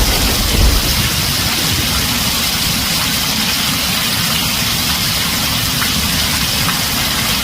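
Heavy rain falling on a tin roof, a steady dense hiss, with a low rumble of thunder dying away about a second in.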